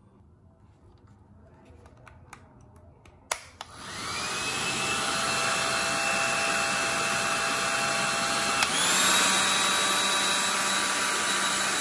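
Conair Infiniti Pro hair dryer switched on with a click, its fan motor spinning up to a steady whine over a rush of air. It clicks over to another setting about two-thirds of the way through and runs slightly louder and higher.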